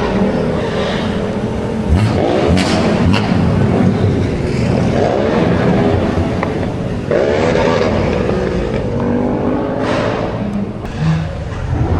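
A car engine revving hard at a car meet, its pitch rising and falling several times as it is pushed on and off the throttle, with a few sharp cracks early on.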